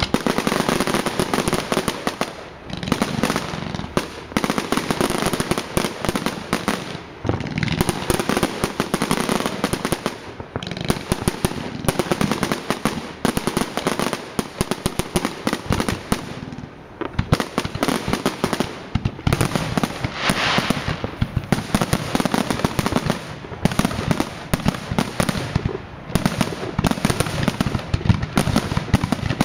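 Fireworks display: a dense, continuous crackle of rapid bangs and pops, with brief lulls every few seconds.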